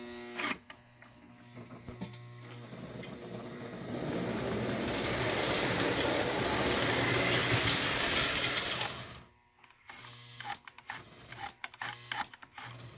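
Lionel O gauge toy train running on the track, its motor and wheels rattling louder as it draws close, then dropping away suddenly about nine seconds in, followed by scattered clicks. A steady electric hum lies underneath.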